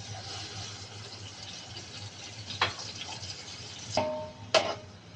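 Chicken stock being poured into a hot pan, a steady hiss of liquid. Then a metal utensil knocks against the pan three times, the last two with a brief ringing tone.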